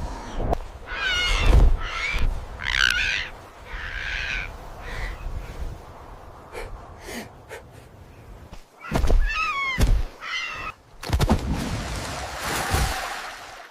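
A series of short animal cries, several sliding down in pitch, over low rumbling and thuds, with a longer hissing sound near the end.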